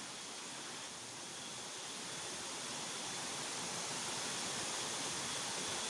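Steady rushing of a flowing river, an even hiss that grows slightly louder about two seconds in.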